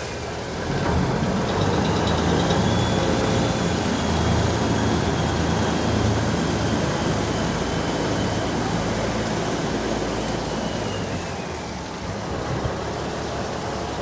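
Diesel engine of a Saen Saep canal passenger boat running steadily at low revs, a constant low hum.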